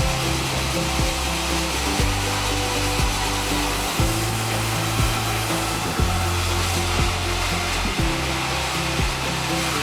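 Sawmill machinery running with a steady, loud rushing noise, under background music with a beat about once a second and a bass line that steps from note to note.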